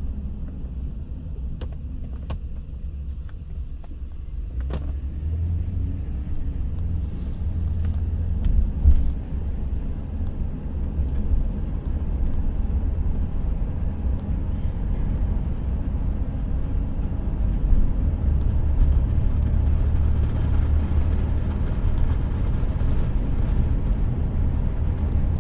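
Low, steady rumble of a car in motion, heard from inside the cabin, with a few small clicks near the start.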